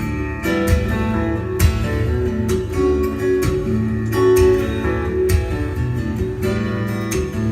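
Guitar playing an instrumental piece: plucked notes and chords ringing over a low bass line.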